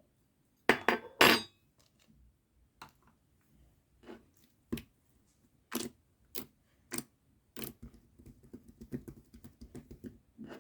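Slime being squeezed and poked by hand, giving sharp pops and clicks. A loud cluster comes about a second in, single pops follow every second or so, and a run of small quick clicks comes near the end.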